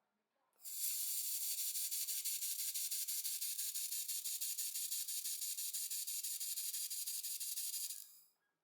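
A 1500 W handheld laser welder laying a wire-fed bead on aluminium: a steady high hiss with a fast, even pulsing that starts abruptly and runs about seven seconds before cutting off.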